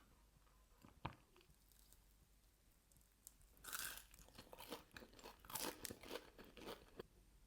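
Close-miked chewing of a döner dürüm wrap: irregular bursts of wet crunching and smacking. A single click comes about a second in, and the chewing grows busier from about three and a half seconds on.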